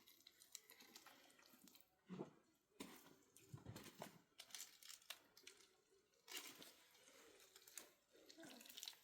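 Near silence, with faint scattered clicks and rustling.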